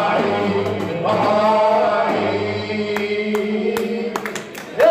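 Several voices singing together in long, held notes. The singing softens briefly near the end, then comes back loud right at the close.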